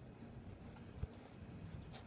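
Faint scratchy sounds of a paintbrush and hands working on a sneaker's midsole, with one soft low thump about a second in.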